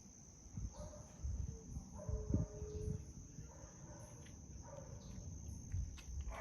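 Outdoor ambience with a steady high-pitched insect drone throughout, over irregular low bumps and rustling. A short pitched call sounds about two seconds in.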